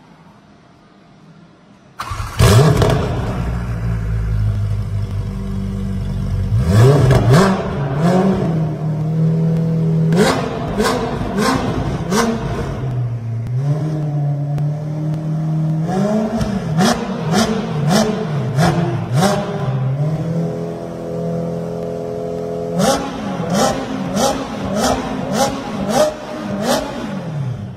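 Ferrari 488 Pista's twin-turbo V8 through a Novitec aftermarket exhaust, started about two seconds in with a loud flare, then idling and revved in repeated short blips, in quick series around the middle and again near the end.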